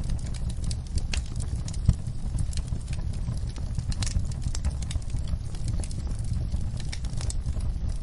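Campfire crackling: frequent sharp pops and snaps over a steady low rumble of burning wood, with one louder pop about two seconds in.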